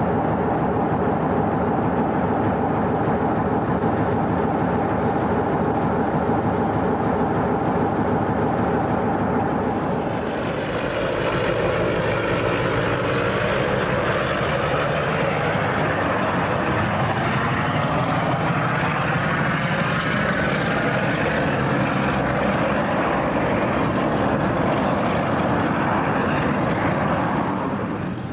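Diesel train engines: a steady, unchanging drone for the first part, then from about ten seconds in a train passing close by, its sound swelling and sweeping in pitch as it goes past.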